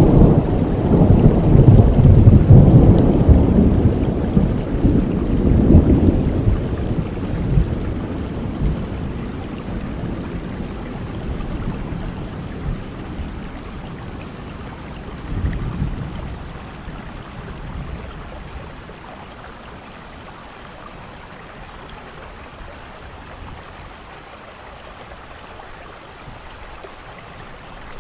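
Steady rain with rolling thunder: a loud low rumble in the first few seconds that slowly fades, a smaller swell of rumble about fifteen seconds in, then only the even hiss of rain.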